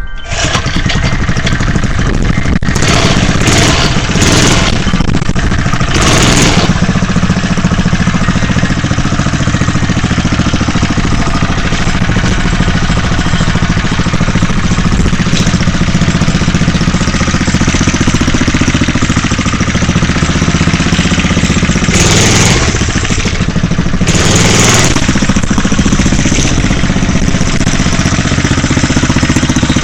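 Minibike's 3 hp Briggs & Stratton single-cylinder engine, just started from cold, running steadily, with a few short louder rushes of noise.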